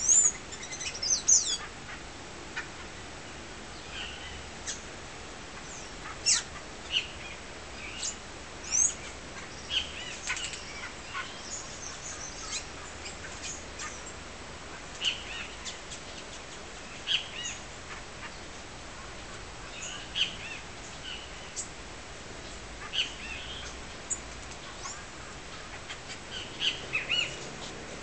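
Birds chirping: short, high, scattered calls, with a quick burst of sweeping notes at the start and single sharp chirps every second or two after.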